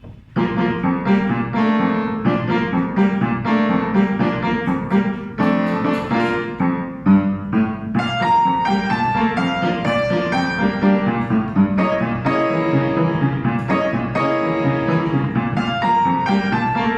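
Piano playing a brisk beginner piece, several notes a second over repeated low chords, starting just after the opening moment.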